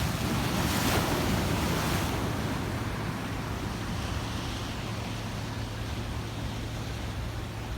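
Ocean waves washing against rocks: a louder surge and splash about a second in that settles into a steady wash. A steady low hum runs underneath.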